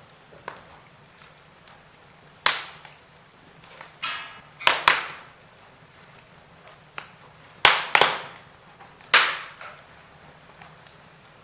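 Wood fire burning in a fireplace, with six sharp, loud pops and snaps, some coming in quick pairs, over a faint background crackle.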